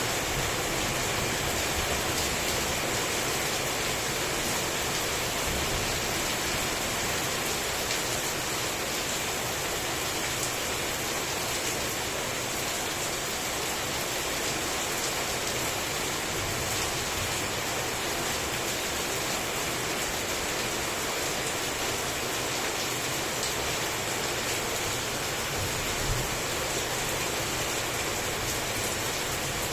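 Heavy rain falling steadily: an even, unbroken hiss of drops on surfaces.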